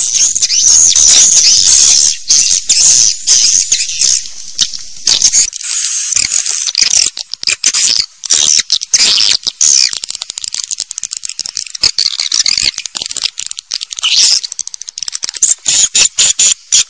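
Swiftlets twittering: a dense, high-pitched chorus of chirps broken by rapid clicking and short gaps.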